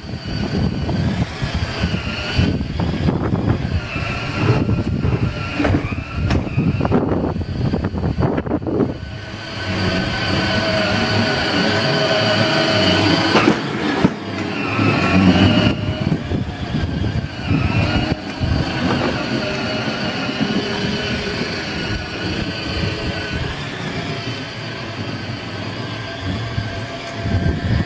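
Children's electric ride-on car running, its electric drive motors whining steadily over the rumble of its wheels rolling on the ground.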